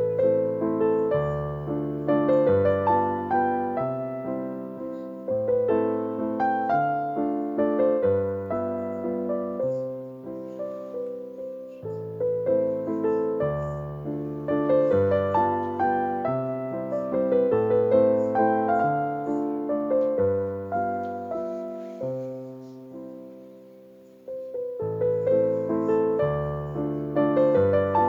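Background piano music: a slow melody over sustained bass notes, fading briefly a little before the end and then starting again.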